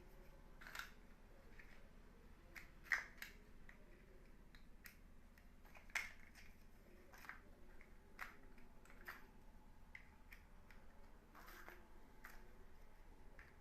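Plastic building-block pieces clicking and tapping as they are handled, in irregular small clicks, with two louder clicks about three and six seconds in.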